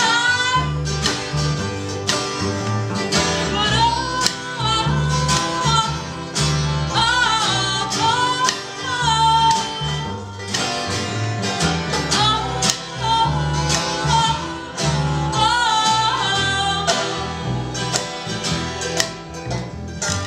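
Acoustic folk/old-time string band playing a song live: guitar under a wavering melody line, with steady low bass notes.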